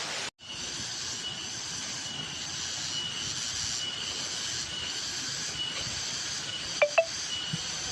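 Steady rushing of a waterfall, with insects chirping in a high, regular pulse a little more than once a second. Two sharp clicks near the end.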